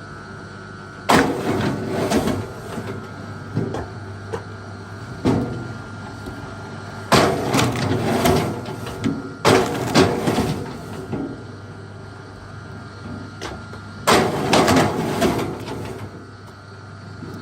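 Wood knocking and clattering in about six bursts, each starting with a sharp hit and lasting about a second, over a steady low hum.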